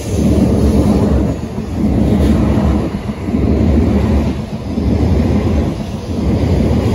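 N700A Shinkansen train pulling out of the station past the platform, a loud low rolling rumble that swells and fades about every two seconds as each car goes by.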